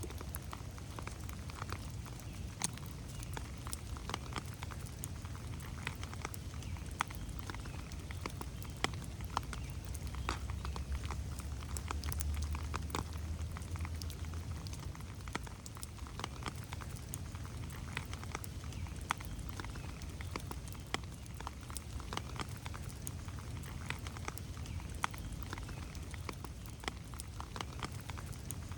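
Rain falling in a forest, with many separate drops ticking and pattering on leaves and the ground. Under the rain runs a steady low rumble that swells for a few seconds about ten seconds in.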